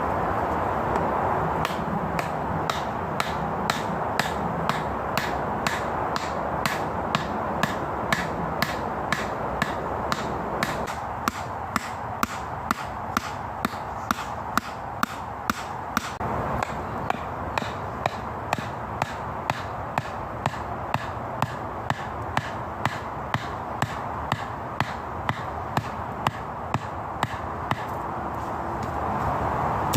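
Repeated strikes of a hand tool on wood, steady at about two a second, over a constant background hiss.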